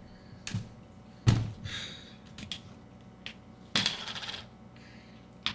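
Several separate clinks and knocks of a cereal bowl and box being handled, the loudest about a second in, with a short rattling burst about four seconds in.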